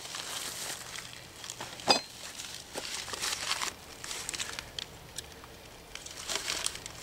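Crinkling and rustling with scattered light clicks and a sharper knock about two seconds in: parts being handled during a small engine teardown.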